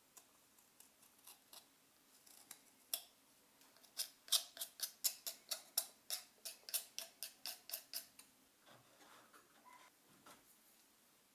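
A quick run of sharp clicks, about five a second for some four seconds, after a few scattered clicks.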